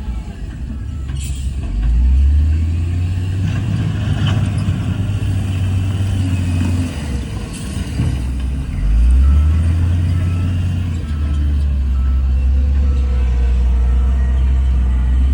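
Heavy diesel engine of earthmoving equipment running under load, with a steady low drone that revs up about two seconds in and again about nine seconds in.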